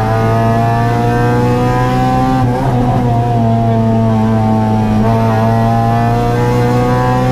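Honda Civic rally car's engine heard from inside the cabin, pulling hard under acceleration. Its pitch climbs steadily and drops at each gear change, about every two and a half seconds.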